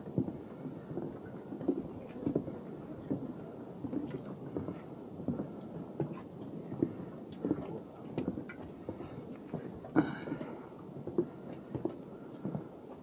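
Footsteps walking along a forest trail, a steady thud about every three-quarters of a second with light clicks and scuffs. About ten seconds in there is a brief high squeak.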